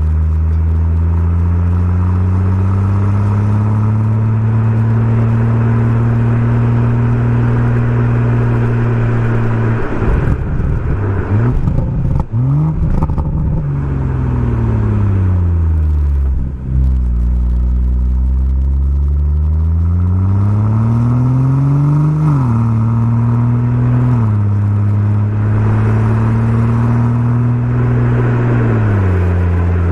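BMW M140i's 3.0-litre turbocharged straight-six running through a Remus aftermarket exhaust under way. The engine note climbs and holds, breaks into a crackly, uneven patch about ten seconds in, then falls steadily as it slows on the overrun. It dips sharply at a gear change just past halfway, climbs again under acceleration and drops in steps at upshifts near the end.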